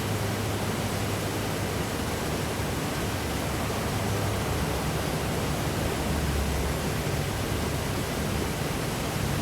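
Steady rushing background noise with a low hum underneath, without distinct events.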